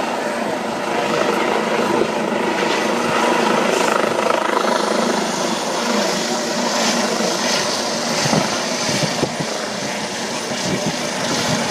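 Medical helicopter running on the ground with its rotor turning, a steady loud engine and rotor sound, ready for lift-off with its rear door closed.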